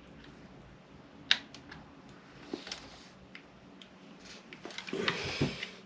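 Light metal clicks and ticks of a flat-head screwdriver working in the cut slot of a seized bolt, with one sharp click about a second in and a short rasping scrape near the end; the bolt is not turning.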